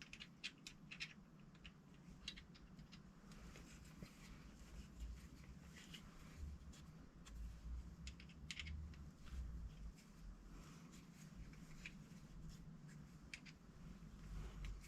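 Faint, irregular scraping and light clicks of a hand deburring tool working the edge of a small turned metal part, with the lathe stopped.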